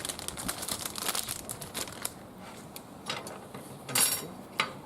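Wood fire burning in a barbecue grill, crackling with a quick run of small snaps in the first two seconds, then a few louder single pops.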